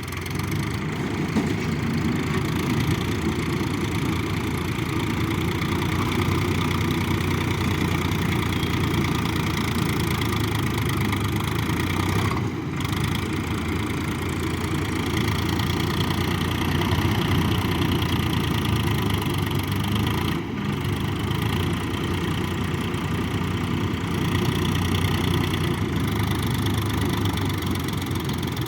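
Tractor diesel engine running steadily, with two brief dips in level about twelve and twenty seconds in.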